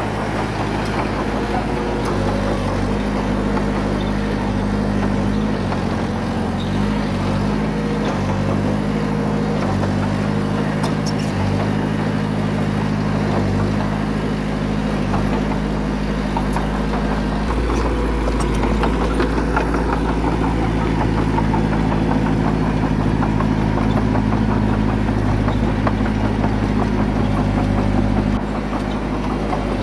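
Heavy diesel engine of earthmoving equipment running steadily, its note shifting several times. About two-thirds of the way through it turns deeper and louder, then drops back near the end.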